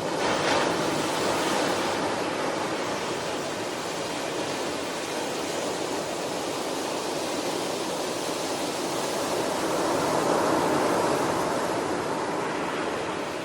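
Ocean waves breaking on the shore, a steady rush of surf that swells twice: just after the start and again about ten seconds in.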